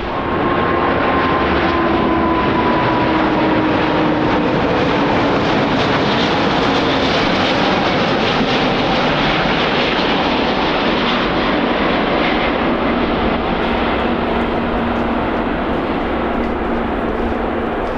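Jet airliner's engines running loud as it passes, with a faint whine that falls slowly in pitch.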